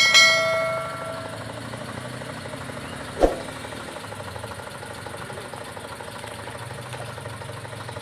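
Eicher 485 tractor's diesel engine running steadily at low revs. Right at the start there is a metallic clang that rings on and fades over about a second, and about three seconds in there is a single short, sharp knock.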